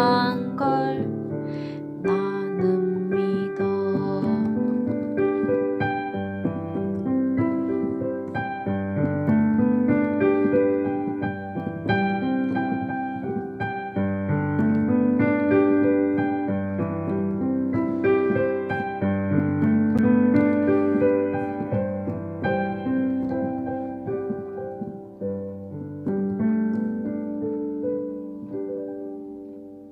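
Slow, gentle piano-style keyboard music playing sustained notes and chords, with no singing, then fading out over the last several seconds.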